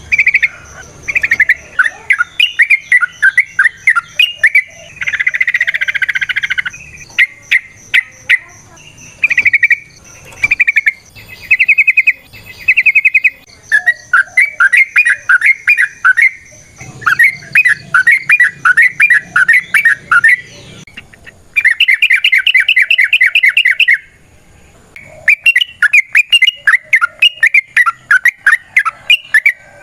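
Yellow-vented bulbul (trucukan) singing fast, chattering phrases of rapidly repeated notes. The phrases come in bursts of a few seconds with short pauses between them.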